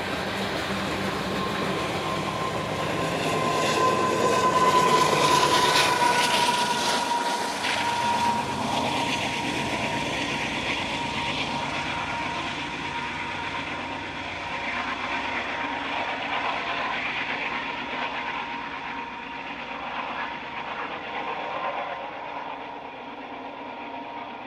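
A loaded coal train rolling by: its freight cars rumble and clatter on the rails, and a thin, steady, high wheel squeal grows loudest about five seconds in, then eases off.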